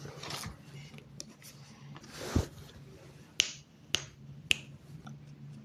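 Sheet of paper rustling, with a soft thump about two seconds in, then three sharp snaps about half a second apart.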